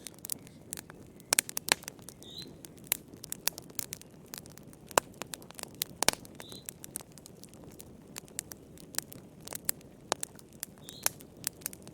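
Wood fire crackling in a fireplace: irregular sharp pops and snaps over a steady low rush of burning. A faint, short high chirp comes back every few seconds.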